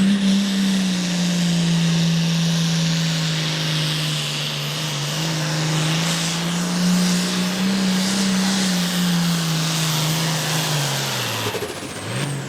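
Pro Farm pulling tractor's diesel engine held at full throttle through a pull, a steady high-revving drone with heavy hiss; about eleven seconds in the revs drop as the run ends.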